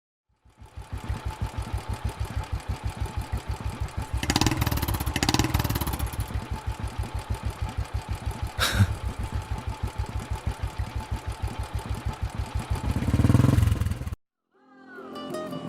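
Engine running with an even, rapid pulse of about six beats a second, swelling louder near the end and then cutting off suddenly.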